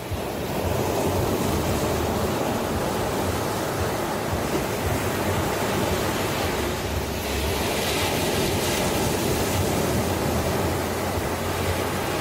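Ocean waves washing onto the shore in a continuous surf, swelling to a brighter hiss about eight seconds in.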